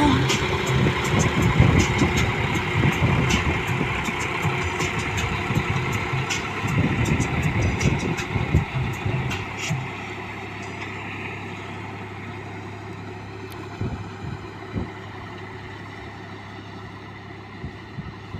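Massey Ferguson 7250 DI tractor's three-cylinder diesel engine running, louder and with scattered clicks and knocks at first, then settling to a quieter, steady hum about ten seconds in.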